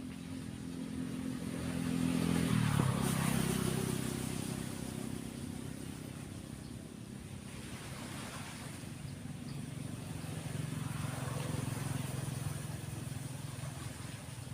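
A motor vehicle's engine hum passing close by, loudest and dropping sharply in pitch about three seconds in as it goes past. A second vehicle swells louder near the end, over the steady wash of breaking waves.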